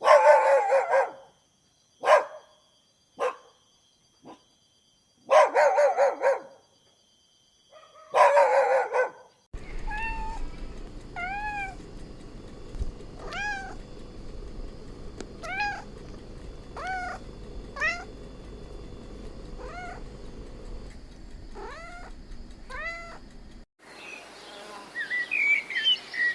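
Cats meowing: several loud, drawn-out meows in the first part, then a run of short, high mews repeated about once a second.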